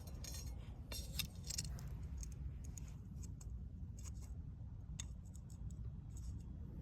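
Wood fire crackling in a metal fire pit: irregular sharp pops and clicks, some in quick clusters, over a steady low rumble.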